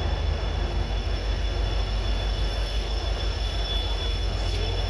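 Passenger train pulling out at low speed, heard from the coach doorway: a steady low rumble of the coach running on the rails, with a thin steady high whine over it.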